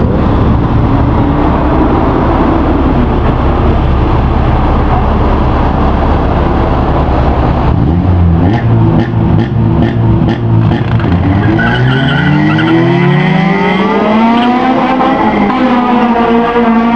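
Street-race cars revving at the line, then launching and accelerating hard away, the engine pitch rising, dropping at a gear change and rising again.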